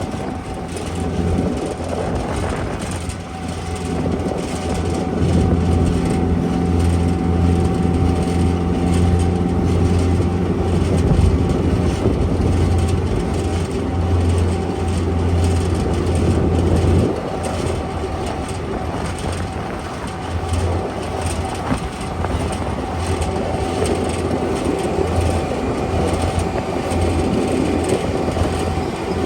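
Airport ramp tug (tow tractor) engine running while driving, a loud low hum that eases a little past halfway through, with a steady high whine throughout.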